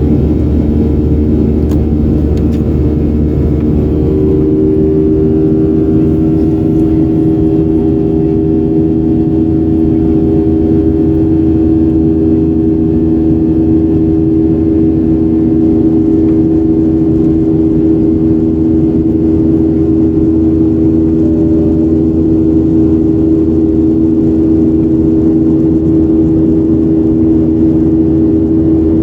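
Boeing 737-800's CFM56 jet engines heard from inside the cabin: a loud, steady hum and rumble. The engine tones shift a few seconds in, then hold steady.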